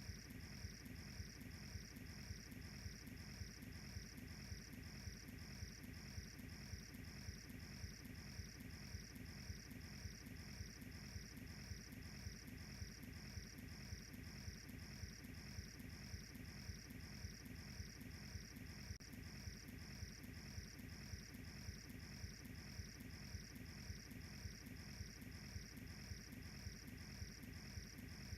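Crickets chirping in a steady, even rhythm, about two chirps a second, over a faint low noise of a wood fire burning.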